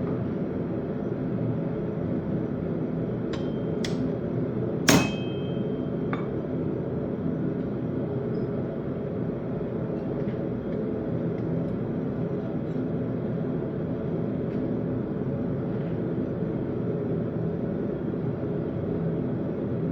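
Four ringing metal-on-metal strikes in quick succession a few seconds in, the third much the loudest, typical of a blacksmith's hammer hitting steel on an anvil. A steady drone runs underneath throughout.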